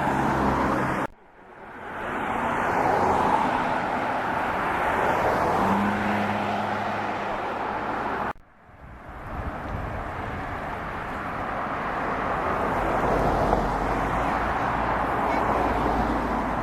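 Steady rushing noise of a moving vehicle with a low hum beneath it. It cuts out abruptly twice and fades back in each time.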